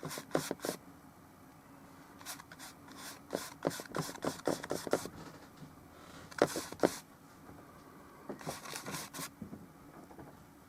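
Brush strokes of oil paint on a small painting surface: several bursts of short dabbing and scraping strokes, with brief pauses between them.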